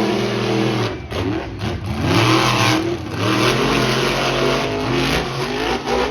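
Monster truck engine revving up and down several times, loud, with its pitch rising and falling between throttle blips.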